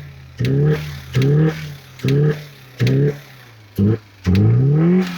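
Renault Kangoo 1.6 16V four-cylinder petrol engine revved in about six quick blips, dropping back to idle between them, the last blip held a little longer. The engine makes the noise that the mechanic takes for a probably blown head gasket.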